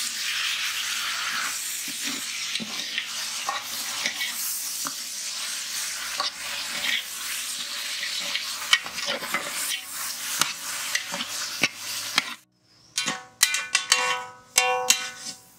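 Chopped tomatoes sizzling in hot oil with sliced onions in a large metal pot, with the scrape and clatter of a steel ladle stirring. The sizzling stops suddenly about twelve seconds in, and a few ringing metal clinks of the ladle against the pot follow.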